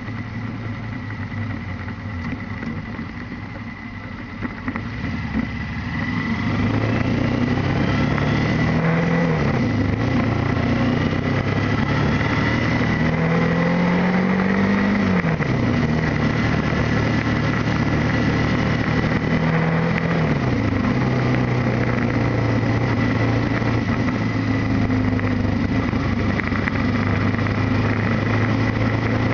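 Motorcycle engine pulling away and accelerating up through the gears: its pitch climbs and then drops sharply at each of three upshifts, about ten, fifteen and twenty seconds in, then holds steady at cruising speed. A steady rush of wind and road noise runs underneath, quieter for the first few seconds.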